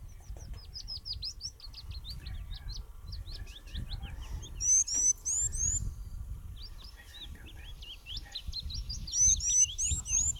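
Songbirds chirping in a rapid, busy chorus of short high chirps. Two louder bursts of three or four quick rising whistles come about five seconds in and again near the end. A low rumble runs underneath.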